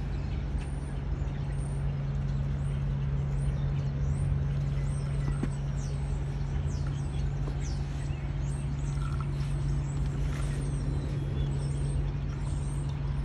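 125cc dirt bike engine idling steadily, with birds chirping now and then.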